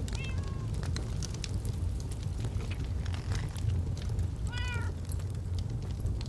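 Log fire crackling with frequent sharp pops over a steady low rumble. Two short, high pitched cries break in, one near the start and one about four and a half seconds in.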